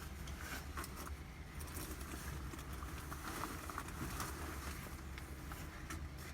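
Steady low rumble with scattered light clicks and taps over it: a background of outdoor ambient sound.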